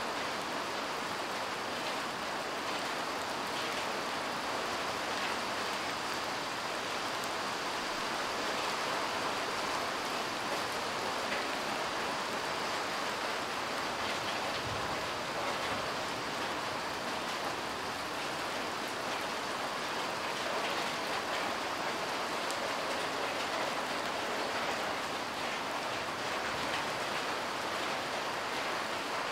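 Steady light rain falling on parked cars and wet dirt ground, an even unbroken hiss of drops. About halfway there is one brief low sound.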